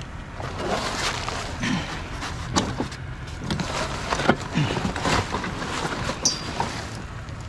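Clanks, knocks and rattles as a small children's trampoline is pulled about and taken apart, over the steady hum of an idling vehicle engine.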